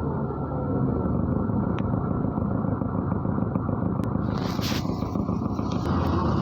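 Interior sound of a MAZ-103 city bus in motion: a steady rumble of engine and road, with a few faint rattles. There is a brief hiss about two-thirds of the way through.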